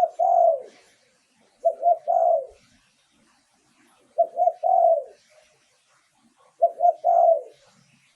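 Spotted dove cooing: four phrases spaced about two and a half seconds apart, each two short notes followed by a longer coo that drops in pitch at its end.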